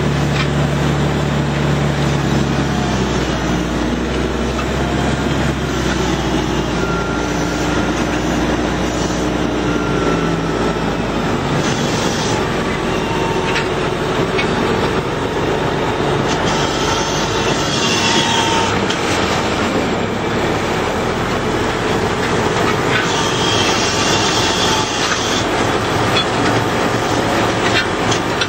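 A heavy vehicle running with a loud, steady mechanical rumble, with brief high squeals here and there.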